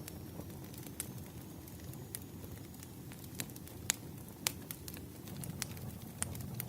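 Burning firewood crackling: a steady low rumble of flames with sharp irregular pops and snaps, about a dozen, the loudest around the middle.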